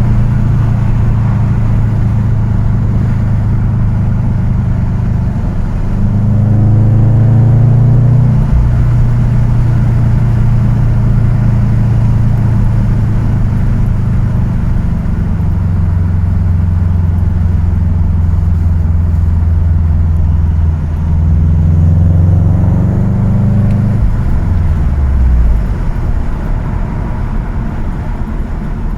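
Car engine running, its pitch stepping up and down several times over a steady low hum.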